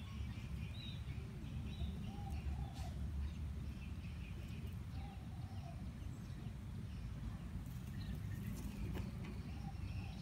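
Quiet outdoor ambience: faint bird calls, a short low call repeated three times a few seconds apart and a few fainter high chirps, over a steady low rumble on the microphone.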